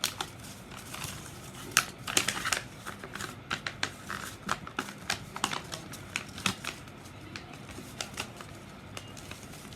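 A sheet of paper being folded and creased by hand: irregular crisp crackles and taps, busiest in the first half and sparser toward the end.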